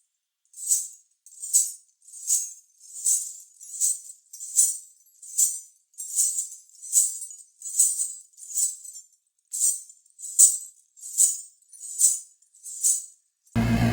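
A jingling, shaker-type rattle shaken in a slow, steady rhythm, about one shake every second, each shake swelling and fading. Near the end it gives way abruptly to a loud low rumble.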